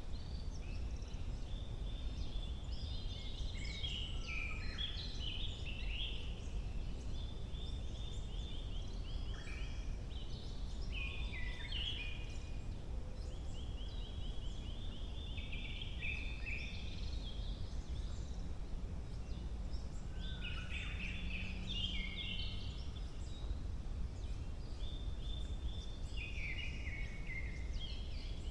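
Several songbirds singing in spring woodland, with repeated phrases and fast, even trills every few seconds, over a steady low background rumble.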